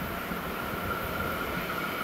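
Distant Metro-North train approaching along the track: a steady rumble with a steady high-pitched tone over it, slowly growing louder.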